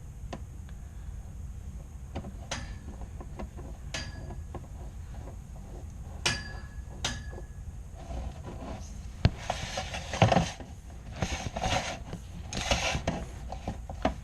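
Dryer vent cleaning rods being fitted and screwed together: a few sharp clicks with a short ring, then irregular bursts of scraping and rustling in the second half.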